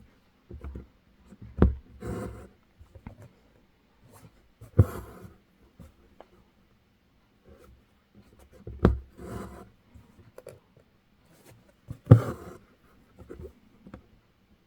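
Embroidery needle clicking through fabric stretched in a hoop, each click followed by a short rasp of thread being drawn through. This happens about four times, with faint ticks between, as French knots are stitched.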